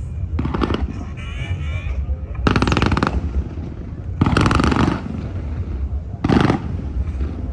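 Fireworks going off in four bursts of rapid crackling, each lasting about half a second, over a steady low rumble.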